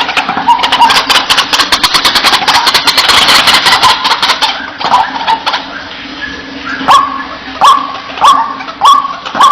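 White-breasted waterhen calls. A dense, harsh chattering chorus runs for the first four or five seconds, then a series of loud, short calls repeats about every 0.6 s from about seven seconds in.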